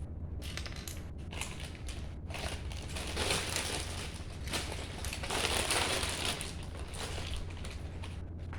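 Loose plastic Lego pieces being rummaged through and handled, a run of small clicks and rattles, with two louder rustling stretches about three and five and a half seconds in.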